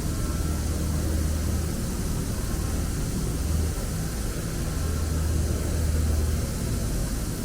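2008 OKK HM500S CNC horizontal mill running, a steady low machine hum that swells and eases slightly.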